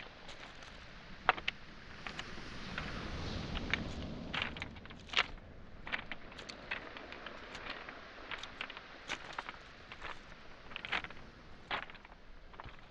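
Footsteps on beach pebbles and small boulders, the stones clacking and knocking together at irregular steps, over the wash of waves on the shore. A wave swells in and falls back between about two and four seconds in.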